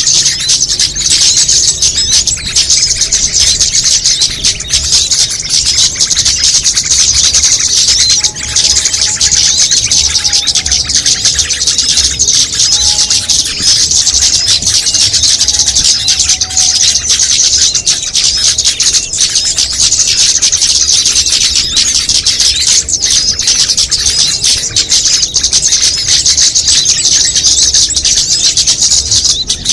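A dense, continuous chorus of small songbirds chirping and twittering rapidly at a high pitch, a mixed bird-lure recording made to draw small birds in. A few fainter, lower whistled notes come in from about 8 s to 20 s in.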